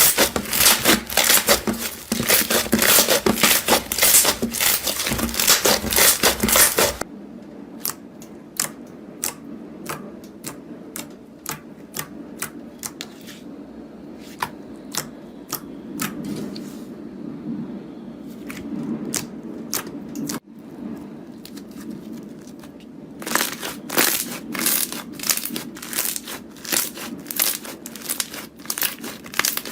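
Dense crackling and crunching of a crunchy material being crushed. After about seven seconds it thins to sparse, separate clicks and pops, and it turns dense and loud again about three quarters of the way through.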